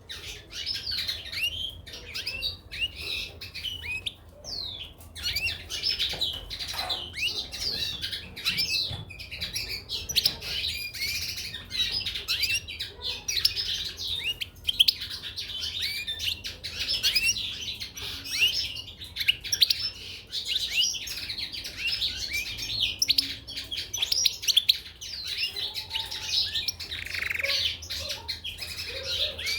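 European goldfinches and canaries chirping and twittering without a break, many short overlapping calls at once.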